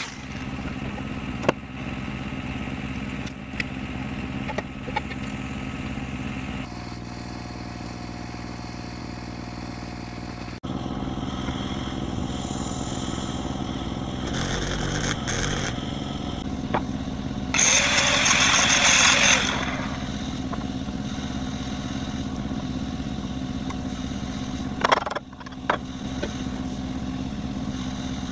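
An engine running steadily. A loud hissing noise cuts in for about two seconds past the middle, and there are a couple of sharp clicks near the end.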